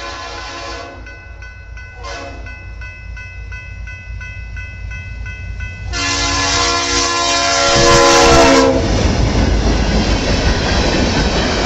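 Horn of an EMD SD40-2 freight locomotive sounding its chord in several blasts. The last blast is the loudest and comes about six seconds in, as the locomotive draws near. The horn stops near nine seconds, and the locomotives' engines and wheels on the rails take over as the train passes close by.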